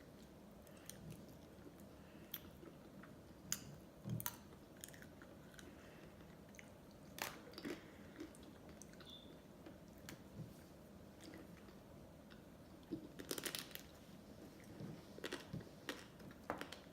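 Ice cream being eaten close to the microphone: scattered short clicks of biting and chewing, with a denser run of them a little after the middle and more near the end.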